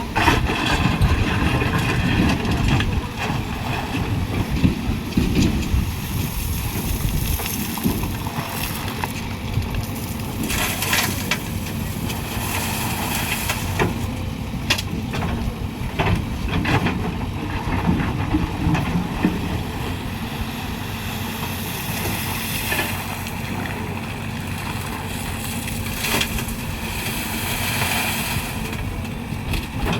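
Diesel engine of a JCB backhoe loader running steadily under load, with short bursts of harsh noise every few seconds as earth and stones are dug and dumped.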